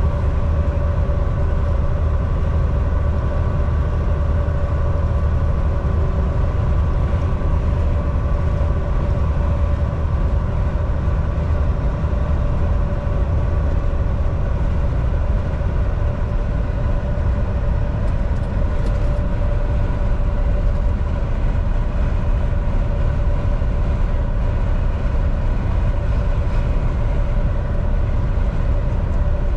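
Volvo VNL 760 semi truck cruising at highway speed: a steady diesel engine drone and road rumble, with a few steady whine tones over it.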